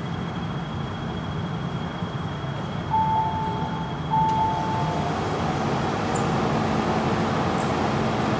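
MTR Tsuen Wan line train at the platform: steady rumble with a thin high whine, two one-second tones about three and four seconds in, then running noise that grows louder as the train moves.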